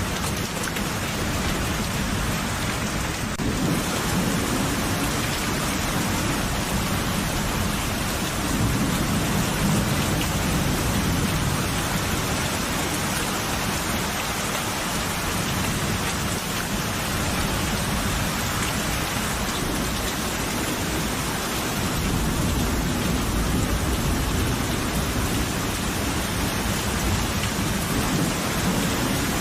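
Steady heavy rain with low rolls of thunder swelling up and fading several times.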